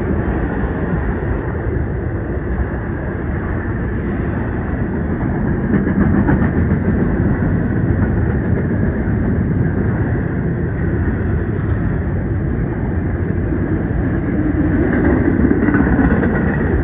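Train rolling past with a steady loud rumble of wheels and cars on the rails.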